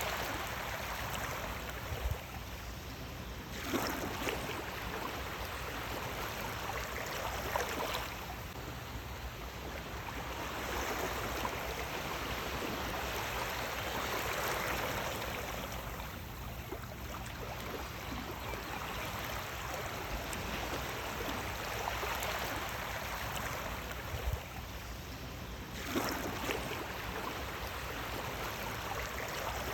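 Sea waves breaking and washing in: a steady rush of water that swells and falls back every few seconds, with a sharper surge near the start and again near the end.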